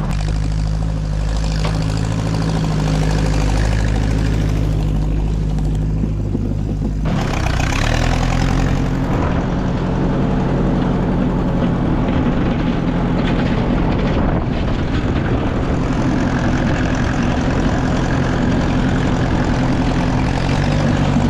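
Tractor engine running steadily while it warms up from a cold start, so the hydraulic pump can raise the 3-point hitch. About seven seconds in, the engine note changes abruptly to a different steady note.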